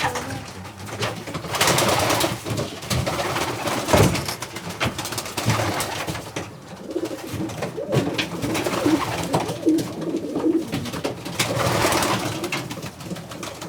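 Racing pigeons cooing in a loft, over scattered light clicks and scuffles, with a sharp knock about four seconds in.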